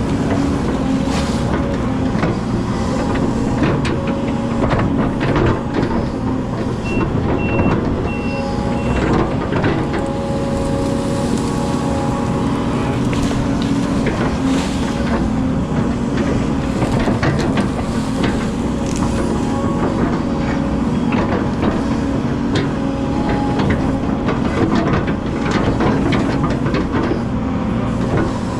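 Excavator's diesel engine running steadily at work, with scattered knocks throughout and a short series of four high beeps about seven seconds in.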